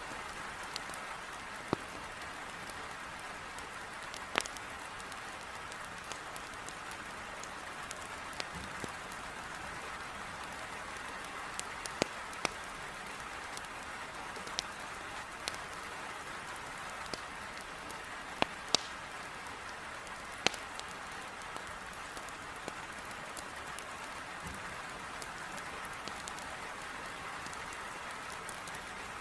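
Heavy rain beating on a window pane, a steady hiss, with scattered sharp pops and crackles from burning firewood in a fireplace, every second or two at irregular intervals.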